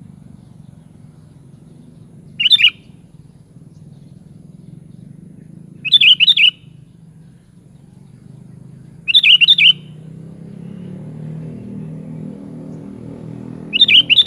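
Sooty-headed bulbul (kutilang) calling in four short phrases of a few quick notes each, about three and a half seconds apart, over a low steady hum.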